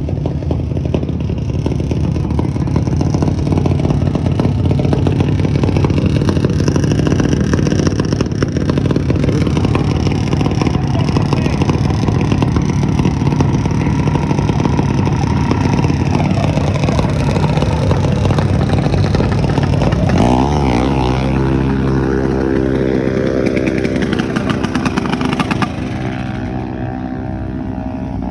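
Small-block mini bike engine running. About two-thirds of the way through its pitch wavers, then settles into a steady tone, and it falls quieter near the end.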